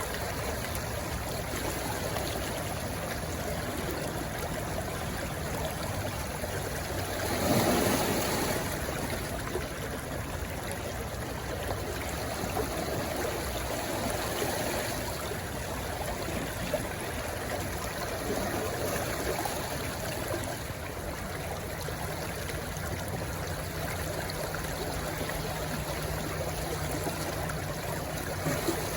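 Shallow stream rushing and gurgling steadily where it runs into the sea, with one brief louder surge about a quarter of the way through.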